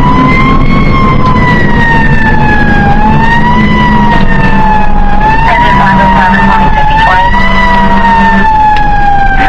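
Fire engine siren wailing, its pitch slowly rising and falling about every three seconds, over a steady low engine hum.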